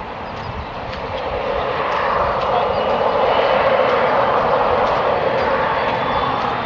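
Boeing 737-800 jet's CFM56 turbofan engines roaring as the airliner passes, swelling to a peak about halfway through and easing off toward the end, with a faint high whine over the roar.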